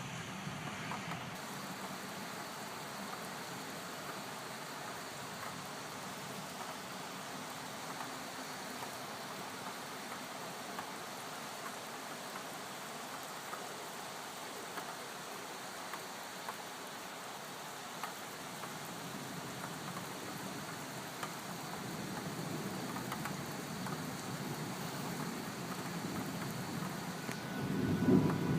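Steady rain falling, with scattered drops ticking. Near the end a low rumble of thunder starts to build.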